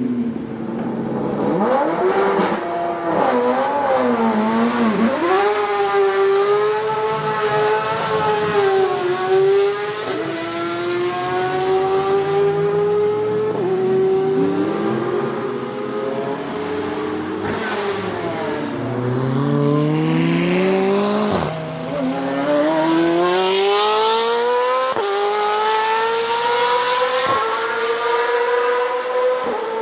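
Nissan 370Z's 3.7-litre V6 pulling hard through the gears. The engine note climbs steadily and then drops sharply at each gear change, several times over, with some easing off and revving back up between pulls.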